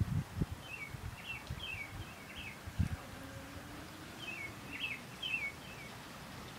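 Small birds chirping, quick short notes in two runs of about four to six chirps each, over a faint background hiss, with a few low thumps at the start and about three seconds in.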